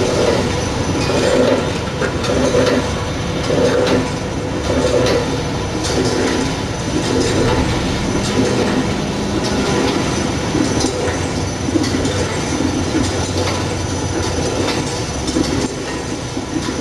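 Pen heat-shrink packaging machine running, a steady mechanical clatter. Over the first few seconds a repeating beat comes about every second and a quarter.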